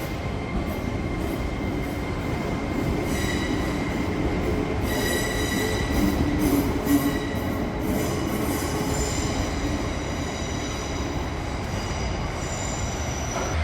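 Passenger train moving slowly through the station, its wheels squealing on the rails in thin high tones that come and go, over a steady rumble of rail and running noise.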